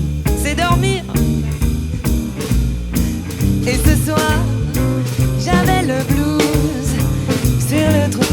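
Small swing-jazz band playing an instrumental passage: a bending, gliding horn line over double bass and drum kit.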